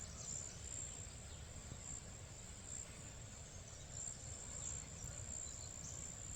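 Steady high-pitched chorus of insects in the grass, with a low rumble underneath and a few faint bird chirps.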